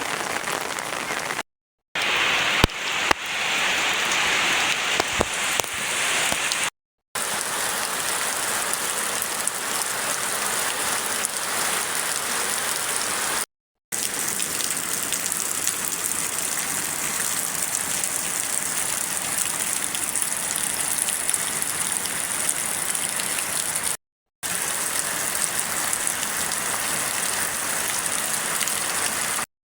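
Heavy rain falling steadily, a dense even hiss. A few sharp knocks sound in the first few seconds, and the sound cuts out completely for a moment four times.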